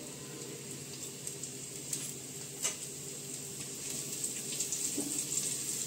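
Chopped garlic sizzling in hot oil in a nonstick frying pan, a steady hiss with a few sharp crackles, while it is stirred with a wooden spatula.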